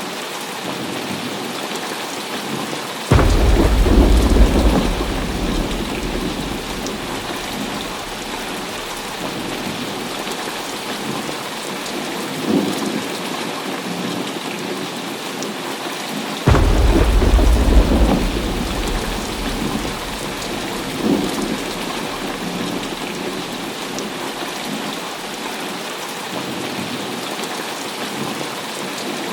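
Heavy rain falling steadily, with two claps of thunder that start suddenly, about three seconds in and again about halfway through, each rumbling deep and loud for a few seconds before fading back under the rain.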